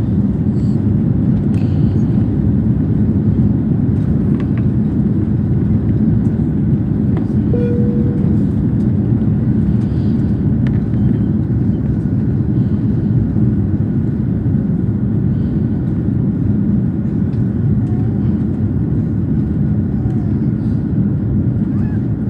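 Steady low rumble of an Airbus A340 airliner's jet engines and airflow, unchanging throughout.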